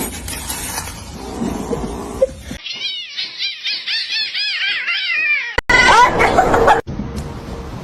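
A cat giving a quick run of short calls that rise and fall in pitch, several a second, followed after a sudden cut by more loud cat vocalising.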